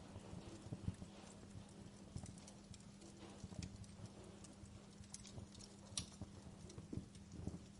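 Wood fire crackling in a fireplace: irregular pops and snaps with soft low thuds, over a steady low hum.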